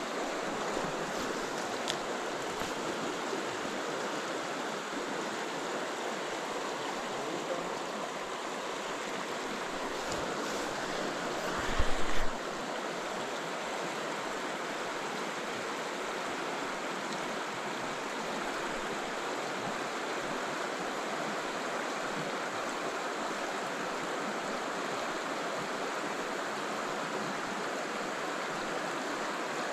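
River water rushing steadily, an even hiss with no break. About twelve seconds in there is one brief louder bump, like a knock or a gust on the microphone.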